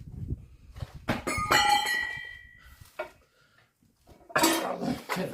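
Metal clanking in a workshop: one hit about a second in rings on with a clear metallic tone for over a second, then more metal clattering near the end, from steel tools and wheel being handled.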